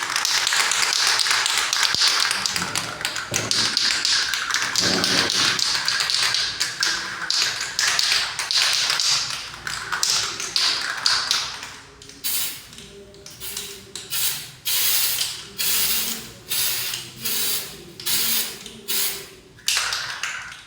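Aerosol can of white contrast paint spraying: a long continuous hiss, then a string of short bursts about a second apart.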